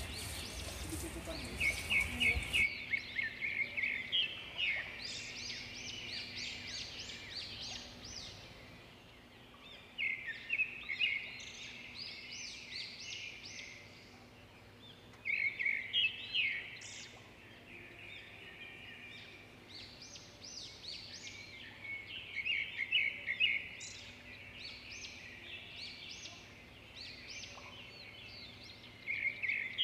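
Water spraying onto plant leaves for the first couple of seconds, cutting off suddenly. Small birds singing in bursts of rapid chirping trills every few seconds.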